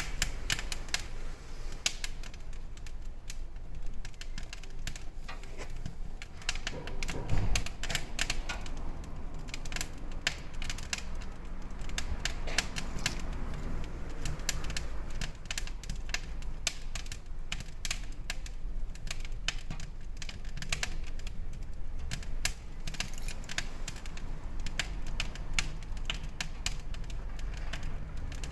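Irregular small clicks and taps throughout, with a louder low knock about seven seconds in.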